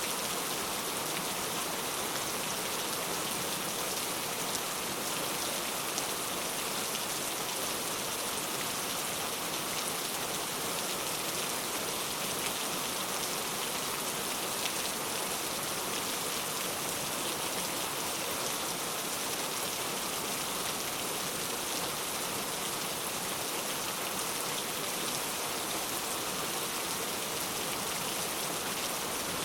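Steady, even rain falling, with fine pattering of raindrops on a surface.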